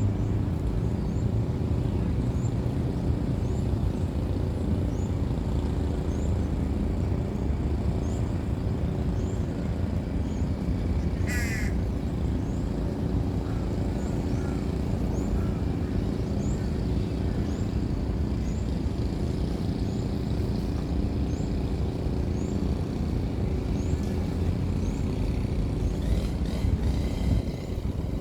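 Birds calling over a steady low rumble: a short high chirp repeats about once a second, and a single harsh, buzzy call sounds about eleven seconds in.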